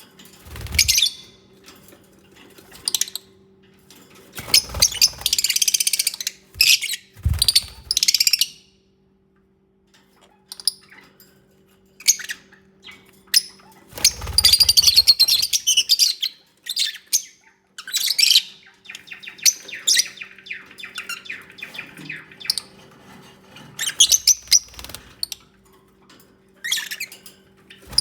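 Pet lovebirds chattering in bursts of rapid, high-pitched chirps and squeaks, several times, with a short silent gap in between. Dull low thumps come with some of the bursts, and a faint steady hum runs underneath.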